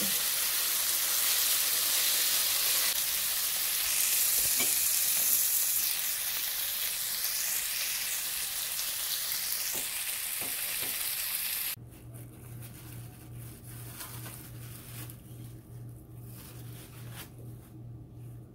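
Chicken strips sizzling as they fry on medium heat in a nonstick frying pan, turned now and then with a silicone spatula. The sizzling cuts off abruptly about two-thirds of the way through, leaving a much quieter low hum that pulses a few times a second.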